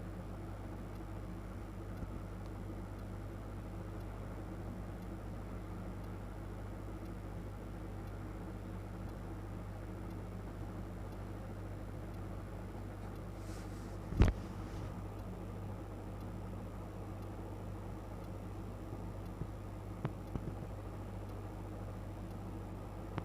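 Steady low electrical hum over faint background hiss, broken by one sharp click about fourteen seconds in and a few faint clicks near the end.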